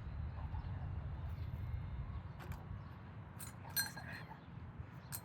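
A few sharp metallic clinks, the loudest about two thirds of the way through, over a steady low hum.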